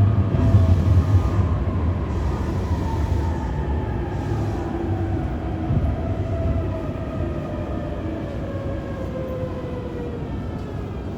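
Running sound of an E531 series electric train with a Hitachi IGBT inverter: a low rumble from the wheels and track under a whine from the traction motors and inverter. The whine's tones slide steadily down in pitch as the train slows, fading out near the end.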